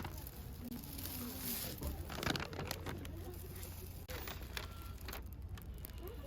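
Outdoor background sound: a steady low rumble with faint distant voices and scattered light rustles and clicks.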